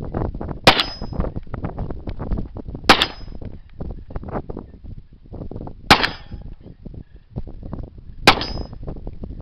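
Four 9mm pistol shots from a Ruger SR9, spaced about two to three seconds apart, three of them followed by a brief metallic ring. Gusty wind rumbles on the microphone between shots.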